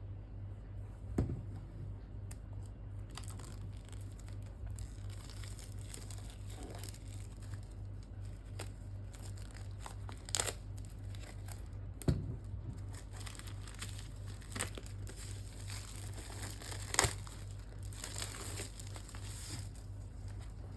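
Packaging being crinkled and torn open by hand, with a few sharper knocks along the way, over a steady low hum.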